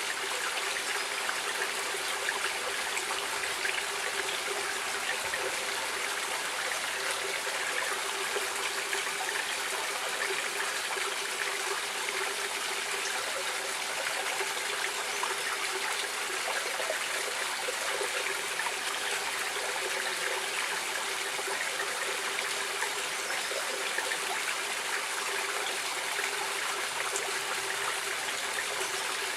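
Stream water flowing and trickling, a steady even rush of moving water.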